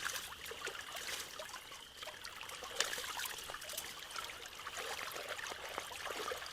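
Water trickling and gurgling as backed-up creek water drains through a partly cleared culvert, with many small splashes and one sharp click about three seconds in.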